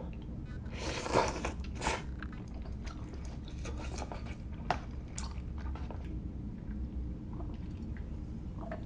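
Close-miked eating sounds: a person chewing and biting mouthfuls of instant hot pot noodles, with two louder, noisier bursts about a second and two seconds in and scattered small mouth clicks.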